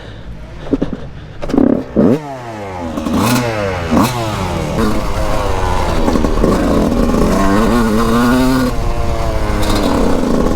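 A 2001 Yamaha YZ125's two-stroke engine on the track, its revs rising and dropping off again and again. There are a few sharp knocks about two and four seconds in, and the revs hold steadier and higher later on.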